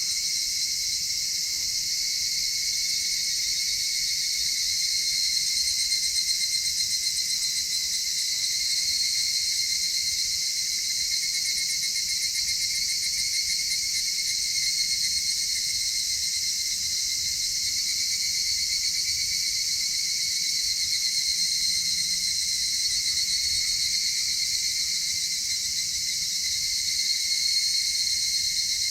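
A steady chorus of many insects singing together, several high-pitched trilling layers running on without a break.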